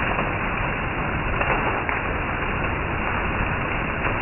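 Heavy rain pouring steadily onto a roof and wet foliage: a dense, even hiss with a few sharper spatters.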